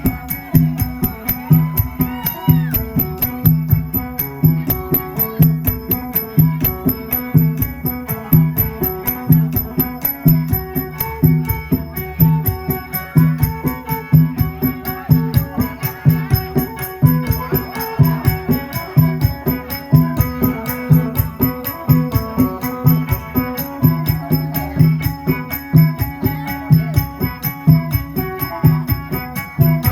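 Isan phin (plucked lute) playing a lively, fast-picked folk tune over a steady low drone, with a quick, even percussive beat throughout.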